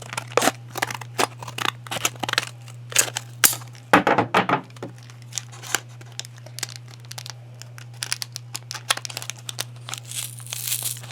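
Scissors snipping through card-pack packaging, with quick sharp cuts in the first few seconds, then the packaging crinkling and tearing as it is pulled open, loudest near the end.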